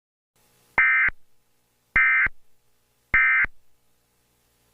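Emergency Alert System digital data tones: three identical short bursts of shrill electronic warbling, a little over a second apart, the end-of-message signal that closes the broadcast alert.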